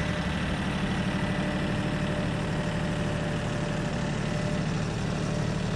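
Kioti NX4510 compact tractor's diesel engine running steadily at an even speed.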